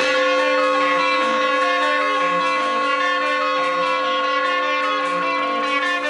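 A single sustained note from a live band's amplified instrument, held at one steady pitch with a buzzy, reedy edge. It starts abruptly and cuts off abruptly after about six seconds.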